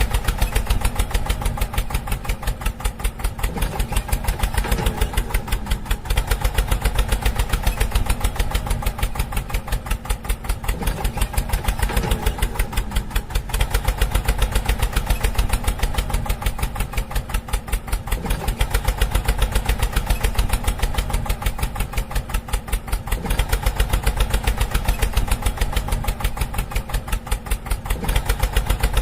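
Small engine running steadily at idle with a rapid, even putter, with a few brief wavering tones over it.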